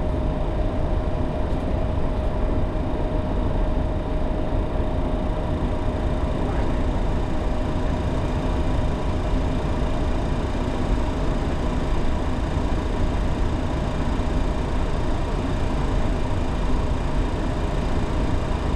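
Steady flight-deck noise of a Boeing 737 on the ground with its engines at idle while holding for takeoff: a constant low rumble and hiss with a steady hum on top, heard from inside the cockpit.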